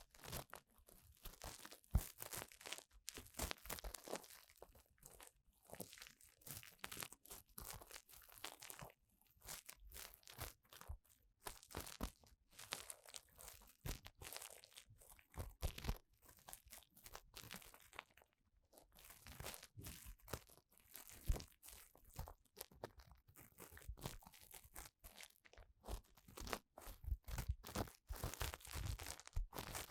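An ear-cleaning tool scraping and rubbing in the ear canal of a 3Dio binaural microphone: close, crackly scratching in quick irregular strokes, with a few short pauses.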